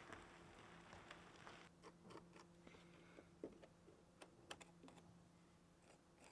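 Near silence: a few faint, light clicks and taps scattered through, over a low steady hum, with a soft hiss in the first second or two.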